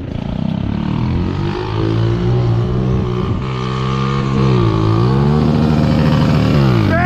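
Small off-road vehicle's engine passing at speed under throttle, its pitch climbing, dipping briefly about halfway, climbing again and then dropping away sharply near the end.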